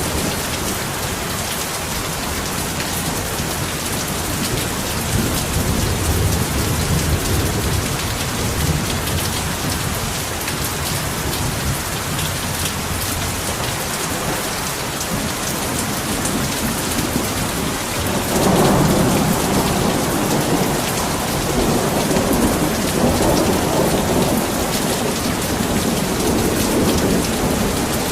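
Heavy rain falling steadily, with thunder rumbling. A louder roll of thunder comes in about two-thirds of the way through and goes on for several seconds.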